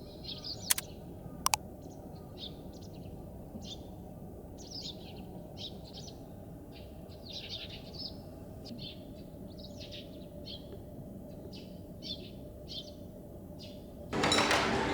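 Small birds chirping in many short, repeated calls over a low steady background hum. Two sharp clicks come about a second in, and a louder noisy sound starts just before the end.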